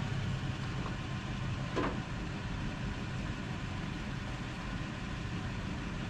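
Steady low rumble of wind buffeting the microphone, with one sharp click a little under two seconds in.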